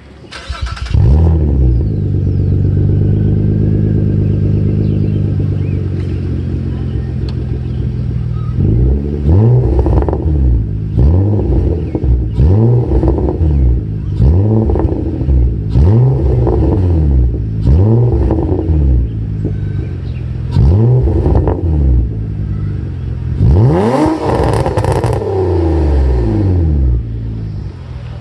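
6th-generation Nissan Maxima's 3.5-litre V6 breathing through a straight-through exhaust with the third cat and resonators deleted and Magnaflow 14816 mufflers. It starts about a second in, runs at a steady high idle, then is revved in a series of about eight quick throttle blips, each rising and dropping back. The last blip, near the end, is the longest.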